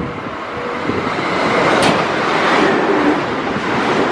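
Electric train passing through the station at speed on the track beside the platform: a broad rush of wheel and air noise that builds from about a second in and stays loud, with a brief sharp crack about two seconds in.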